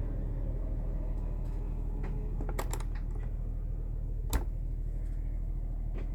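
Steady low hum of the Cummins Onan 7.5 kW Quiet Diesel generator running, with a few sharp clicks of thermostat buttons being pressed, the loudest about four seconds in.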